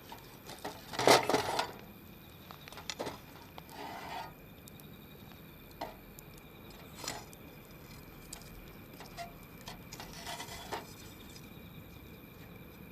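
Wood campfire crackling: scattered sharp pops and snaps, with a louder cluster of cracks and knocks about a second in.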